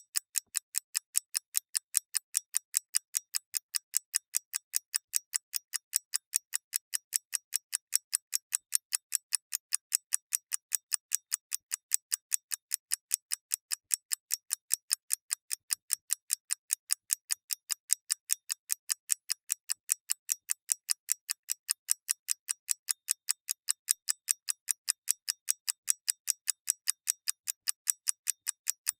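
Clockwork mechanism ticking: a fast, perfectly even train of sharp, light ticks, several a second, with no change in pace.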